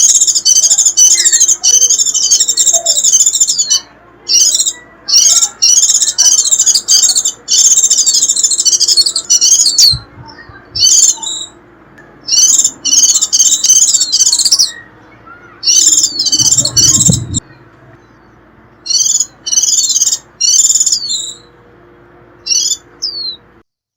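White-eye giving its rapid, high 'rít' twittering call in repeated bursts of half a second to three seconds, with a few single sliding call notes in the gaps. This is the call bird-trappers play to draw wild white-eyes in.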